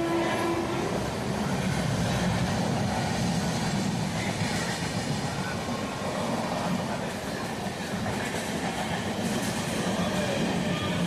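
Passenger train running on the rails, a steady rumble with the clatter of wheels over the track; a horn note dies away right at the start.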